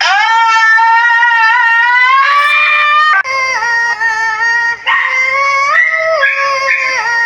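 A dog howling. One long drawn-out note that slowly rises, then shorter howls stepping up and down in pitch in the second half.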